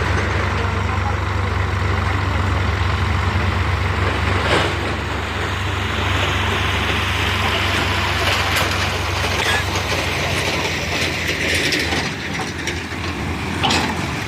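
Sonalika DI 50 tractor's diesel engine running steadily; its low note fades about ten seconds in. A rushing noise rises over it in the middle stretch, with a few sharp knocks.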